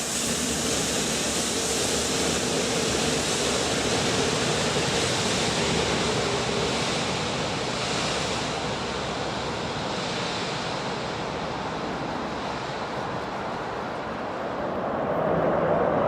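Steady rushing noise of a train running past on the railway, with a faint steady hum. The hiss dies away after about eight seconds and the noise builds again near the end.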